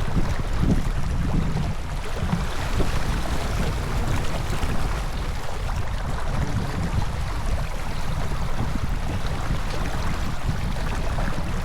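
Steady wind rumble on the microphone with a rushing wash of water, aboard a J24 sailboat under way.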